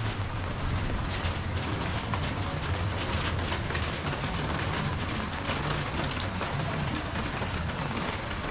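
Heavy rain pouring down, a steady hiss with a low rumble underneath and a few sharper drip splashes.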